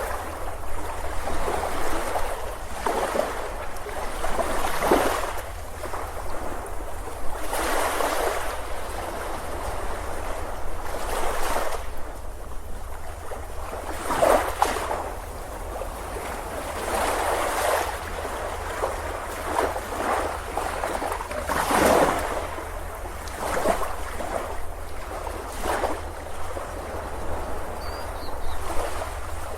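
Ocean surf breaking and washing up a beach, in irregular surges every one to three seconds.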